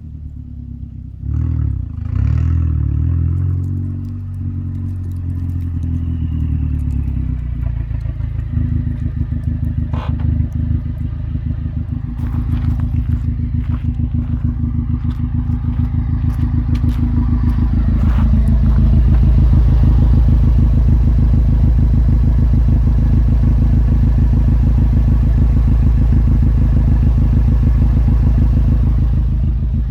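Turbocharged four-cylinder of a Stage 3 K04-tuned VW Golf mk6 GTI running through a 3-inch Milltek exhaust in its loud open-valve mode. The engine note drops in pitch over the first couple of seconds, then holds a steady, rapidly pulsing low rumble that grows louder about two-thirds of the way through.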